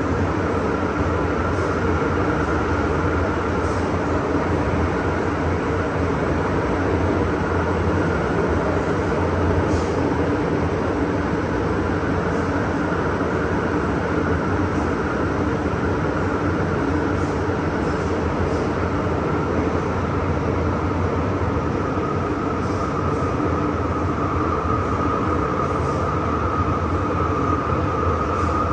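MTR M-Train electric multiple unit running at a steady speed, heard from inside the carriage: a continuous rumble of wheels on rail with a faint steady whine above it and a few light ticks.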